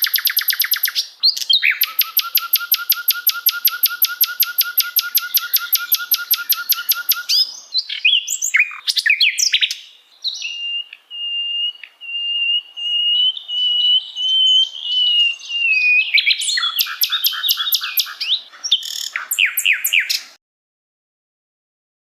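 Songbird song: a long, very fast trill of about ten repeated notes a second, then varied chirps and a wavering whistle held for about five seconds, then another run of quick notes that stops shortly before the end.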